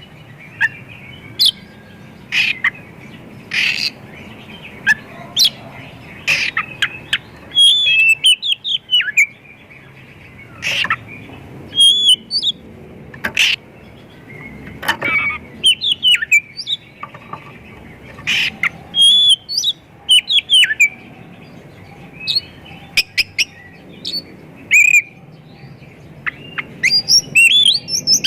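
Oriental magpie-robin singing a loud, varied song of sharp whistles and quick sweeping chirps, delivered in phrases with short pauses between them; the song is packed with 'isian', phrases it has copied from other birds.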